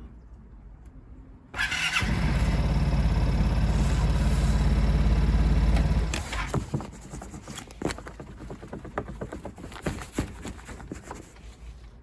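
Vespa Sprint S scooter's 125cc i-Get engine being cold-started: a brief starter whir about a second and a half in, then the engine runs steadily for about four seconds. Its sound drops away abruptly, leaving scattered light clicks.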